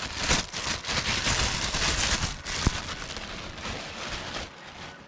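Packaging rustling and crinkling as the handheld vacuum is unwrapped, with a single sharp click about two and a half seconds in; the rustling dies down near the end.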